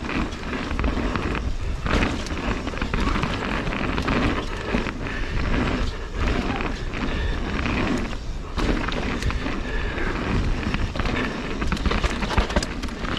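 Mountain bike descending a dirt trail: wind buffeting the microphone in a steady low rumble, with tyres rolling and the bike rattling and clicking over bumps.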